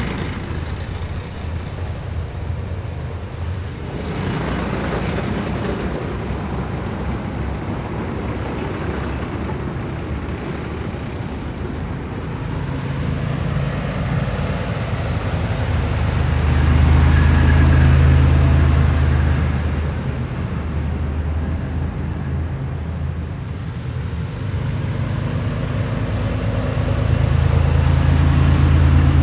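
A column of heavy military vehicles driving past, their engines running with a low drone that swells as each vehicle comes close. It is loudest about halfway through and again near the end.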